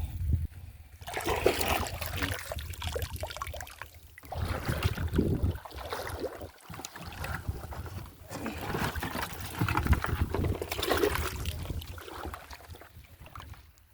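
Shallow seawater splashing and trickling in irregular bursts.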